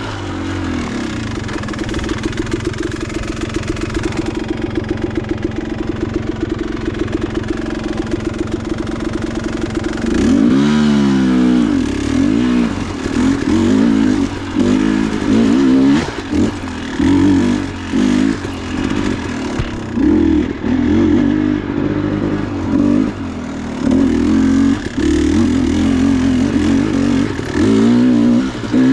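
Dirt bike engine running at a steady throttle for about ten seconds, then revved in short repeated bursts, each rising and falling, one every second or two.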